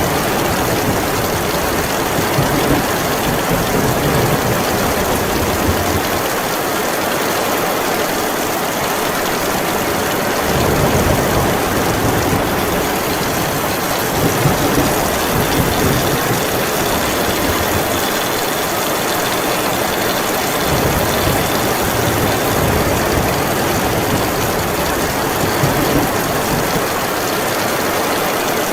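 Heavy rain falling steadily, with low rumbling swells that rise and fade every few seconds under the rain.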